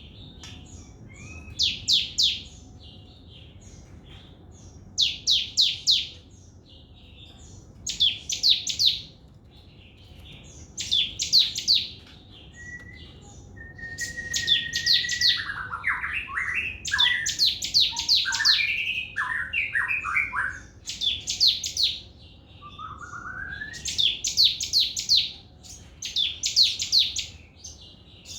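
Sogon bird singing its fast 'trotol' song: short bursts of rapid, high, downward-slurred notes, repeated every two to three seconds. About halfway through, a lower whistled warbling phrase joins in for several seconds.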